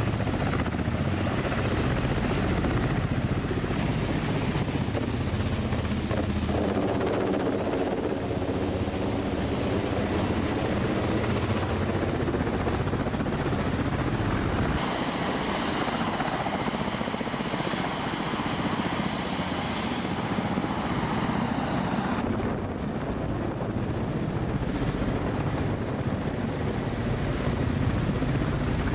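Military attack helicopter's rotor and turbine engines running steadily, in several clips cut together so the character of the noise changes abruptly a few times.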